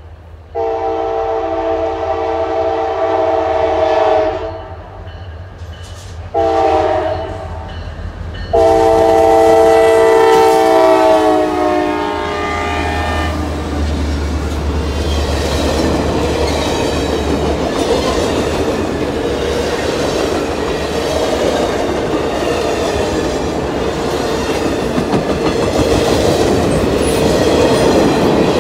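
Diesel locomotive's multi-chime air horn sounding for a grade crossing: a long blast, a short one and a final long blast whose pitch drops as the locomotive passes. Then a heavy low rumble as the locomotives go by, followed by a string of passenger cars rolling past with their wheels clicking over the rail joints.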